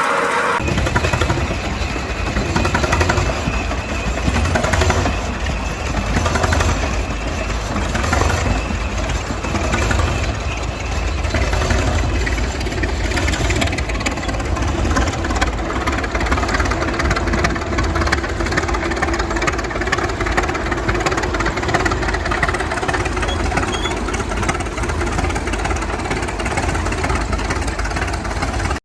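Big old Holt engine running steadily with a loud low rumble, cutting in about half a second in; in the first half its level swells every second or two.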